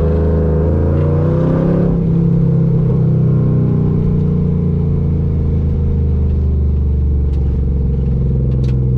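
Camaro Z28's LS1 V8, with long-tube headers and 3-inch dual exhaust, heard from inside the cabin: the engine climbs in pitch under acceleration for about two seconds, then holds a steady, slightly easing note.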